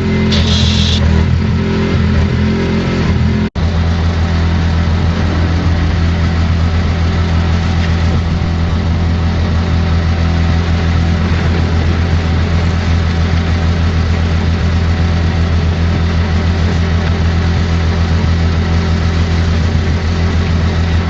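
Gas-engine pressure washer running steadily at full throttle, with the hiss of the high-pressure water spray over the engine. The sound cuts out for an instant about three and a half seconds in.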